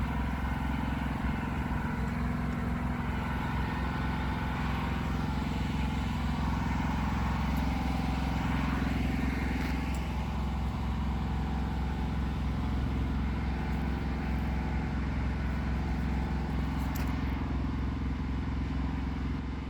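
Pressure washer engine running steadily at a constant speed.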